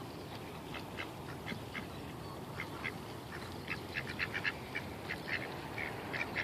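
A flock of ducks quacking: many short calls, coming thicker and faster in the second half.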